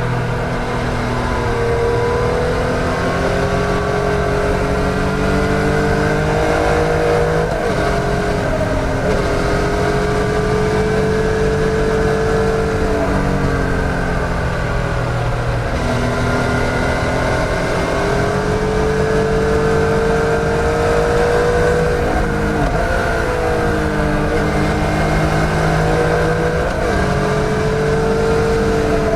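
2014 Yamaha MT-09's 847 cc inline three-cylinder engine heard on board while riding, its note climbing slowly under acceleration and dropping back several times with shifts and closing the throttle, over a steady rush of wind noise.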